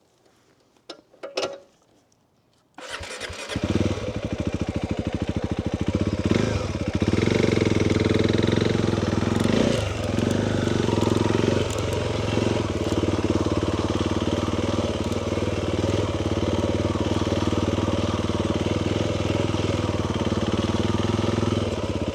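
Motorcycle engine starting about three seconds in, then idling steadily with a few short revs. A few faint clicks come just before it.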